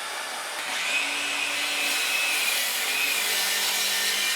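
DeWalt 20V MAX 7-1/4-inch cordless miter saw cutting through a 2x12 board, its blade running steadily through the wood with a whine.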